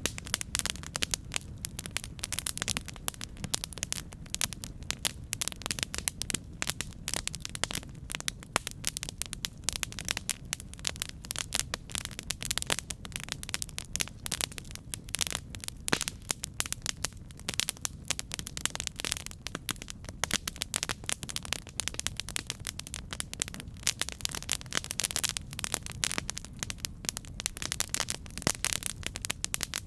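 Wood fire crackling and popping steadily, with dense irregular snaps over a low, steady rumble of flame.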